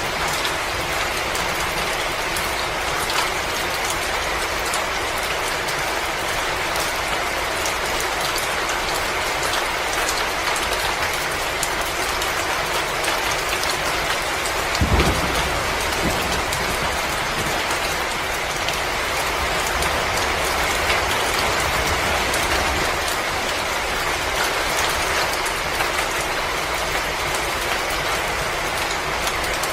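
Wood fire crackling: many small pops and snaps over a steady hiss, with one louder, deeper pop about halfway through.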